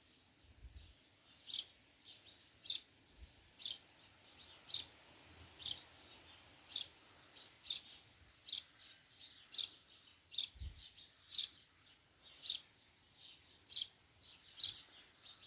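Fledgling songbird calling for its parent: short, high chirps repeated about once a second, with fainter chirps in between.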